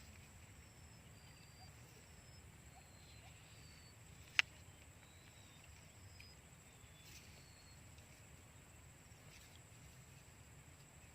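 Quiet open-air ambience with a faint low rumble, a scatter of short, high, faint chirps from small wild creatures, and one sharp click about four seconds in.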